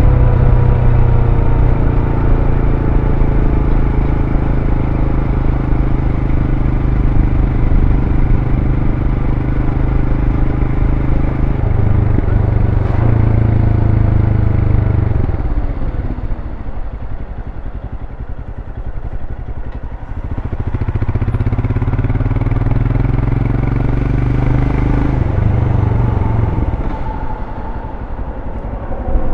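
2023 Royal Enfield Scram 411's single-cylinder engine running through its stock exhaust while riding. It pulls steadily, then about halfway through eases off and goes quieter for a few seconds before pulling again, with another dip near the end.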